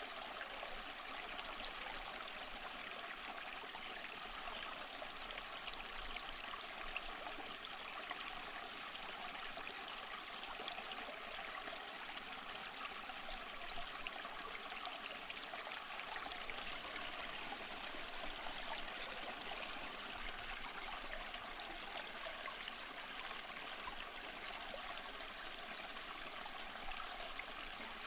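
Waterfall: water rushing and splashing without pause, an even hiss with little deep rumble.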